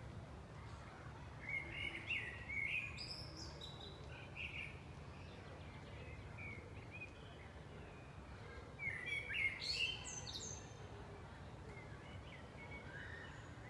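Songbirds chirping and singing in short clusters, about two seconds in and again around nine seconds, over a steady low background rumble.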